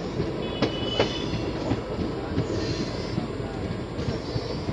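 Express train running slowly, heard from inside a coach. The wheels knock over rail joints and points, with brief high-pitched wheel squeals as it approaches a station.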